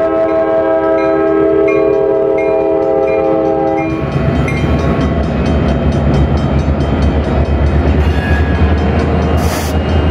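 Diesel locomotive air horn sounding one held chord that cuts off about four seconds in, followed by EMD diesel locomotives rumbling past at close range with steady wheel clicks on the rails.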